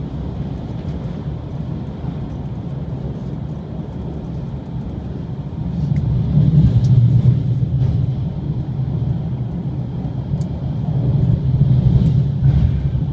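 Limited express train running at speed over a steel truss bridge, heard inside the passenger cabin: a steady low rumble that swells louder twice, about six seconds in and again near the end, with a few faint ticks.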